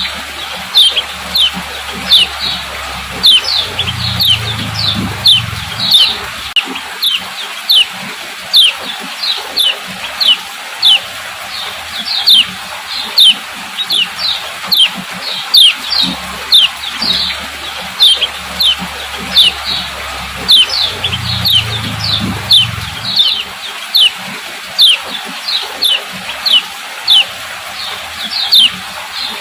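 Female common iora (kecial kuning) giving repeated short 'ciak' chips, each a quick falling note, about two a second, with a faint low hum coming in twice. It is a looped call recording played as a lure to stimulate male ioras to sing.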